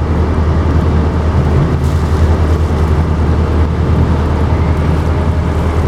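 Fishing boat's motor running steadily, a low drone under an even rushing hiss.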